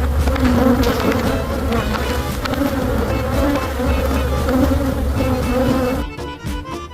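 A mass of honeybees buzzing steadily around an opened hive, a dense drone. Near the end it thins out and breaks up.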